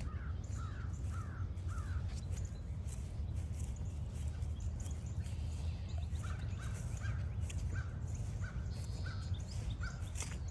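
Wild birds calling: a quick run of about five downward-slurred notes, then after a pause a slower series of short, even notes about twice a second, over a steady low rumble.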